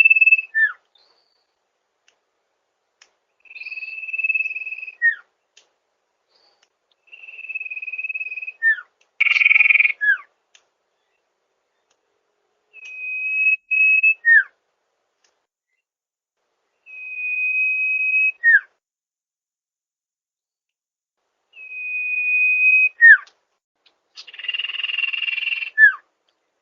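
Sirtu bird calling: a repeated phrase of one long, steady high whistle followed by a short falling note, about every four to five seconds. Twice, a noisier rasping burst comes between phrases.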